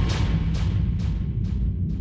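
Designed cinematic impact from a steampunk-style sample library: a heavy low boom layered with metallic clanks that repeat about twice a second and fade away.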